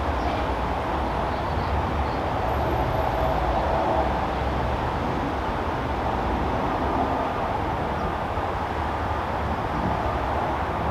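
Steady low rumble of vehicle traffic with no distinct events, at an even level throughout.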